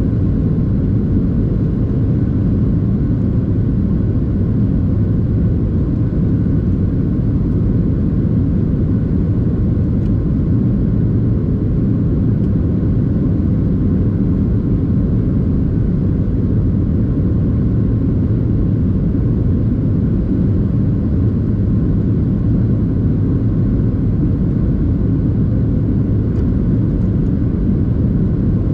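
Steady low rumble of engine and airflow noise inside the cabin of a Boeing 737-800, with its CFM56-7B turbofans running evenly. A few faint steady tones sit above the rumble.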